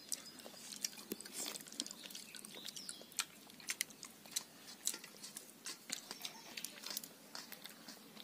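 A person chewing and eating curried fish by hand at close range: irregular wet smacks and small clicks from the mouth.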